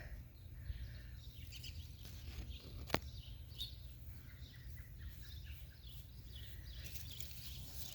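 Faint outdoor ambience: a steady low rumble with scattered faint bird chirps, and a single sharp click about three seconds in.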